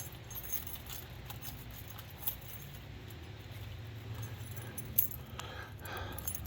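Car keys jangling with a few light clicks, one sharper about five seconds in, over a low steady hum, as the key is readied in the ignition before the 455 V8 is started.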